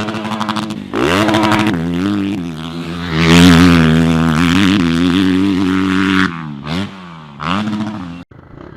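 Motorcycle engine revving: the pitch climbs in the first second, is held high and steady for several seconds, drops about six seconds in, rises once more briefly and then cuts off abruptly near the end.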